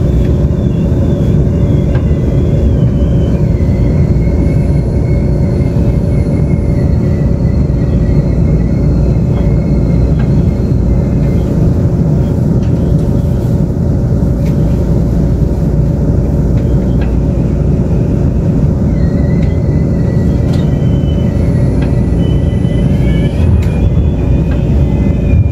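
Inside a Taiwan Railways Tze-Chiang express train running at speed: a steady, loud rumble of wheels on rail. Thin, wavering squeals come and go over it, first early on and again in the second half.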